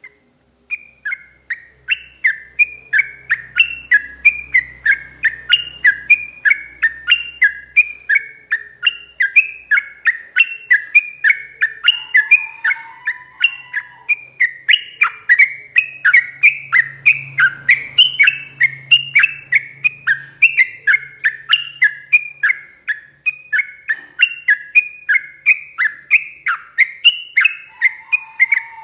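Yellow-vented bulbul (trucuk) singing a long, unbroken run of quick, chattering notes, about three a second. Now and then a lower whistled note sounds under the run.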